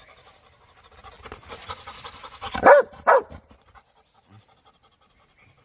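A dog panting, then two loud barks about half a second apart.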